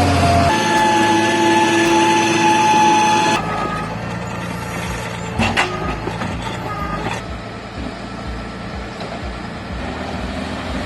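Valtra tractor engine running while hauling a loaded trailer, with a steady whine that changes abruptly about three seconds in, then a few sharp knocks.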